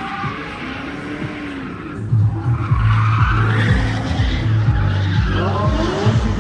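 Drift car running with its engine revving up and down and its tires squealing as it slides, getting louder about two seconds in.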